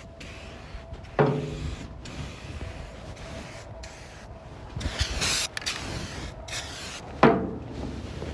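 Short hiss of an aerosol spray-paint can near the middle, with handling noise and two sharp knocks that ring briefly, about six seconds apart.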